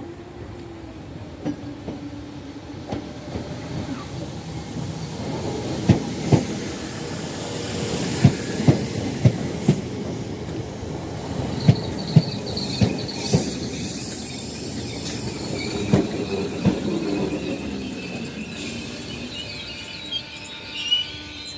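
Train wheels running past, clacking over rail joints in an irregular series of sharp knocks over a steady rumble, with a high wheel squeal in the second half.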